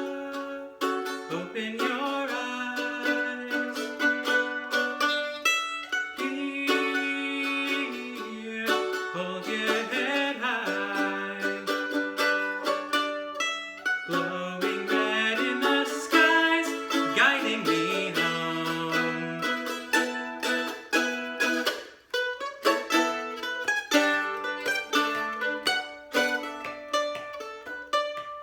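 Instrumental passage of a song played on plucked strings: a quick run of picked notes with a melody over held chords, and a short dip about three quarters of the way through.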